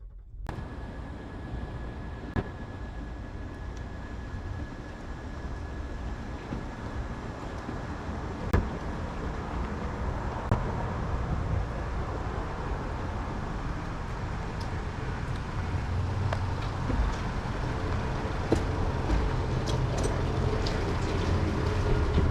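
Car on the move: steady engine and road noise that slowly grows louder, with a few light clicks and knocks.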